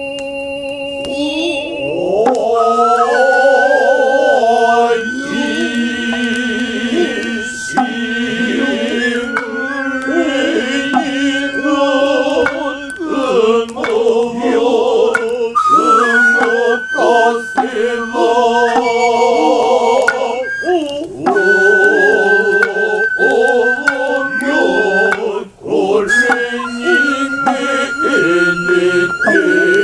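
Noh chant and hayashi accompaniment: voices chant in bending, held tones beneath a high, sustained flute line, with sharp drum strokes scattered through.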